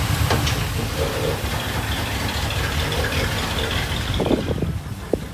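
A 1947 Ford car's engine runs at low speed as the car rolls slowly out, with a steady low rumble. Irregular crackling noise rises near the end.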